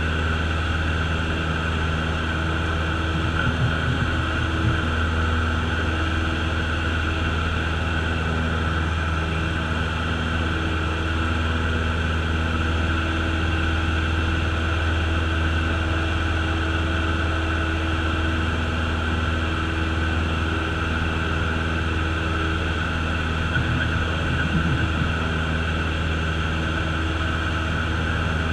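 Cessna's piston engine and propeller droning steadily, heard from inside the cabin, with two brief faint disturbances about four seconds in and near the end.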